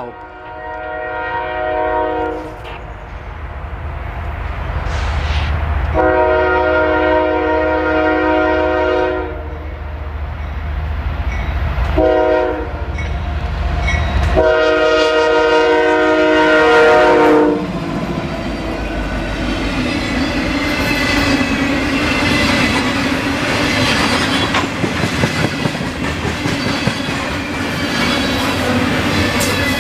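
Diesel locomotive horn sounding the grade-crossing signal: long, long, short, long, over the low rumble of the locomotive. After the last blast the loaded grain train's cars roll past, their wheels clacking over the rail joints.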